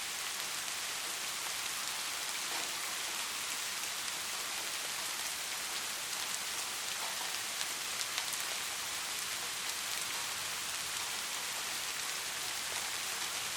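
Steady rain falling, a dense even hiss with scattered individual drops ticking now and then.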